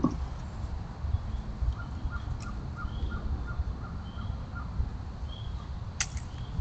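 A crow caws briefly right at the start, over a steady low rumble of wind on the microphone. A quick run of faint, higher chirps follows, and a sharp click comes near the end.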